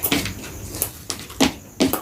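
Close-up eating sounds: wet chewing and smacking of mouthfuls of chicken biryani, in four or five short, sharp strokes.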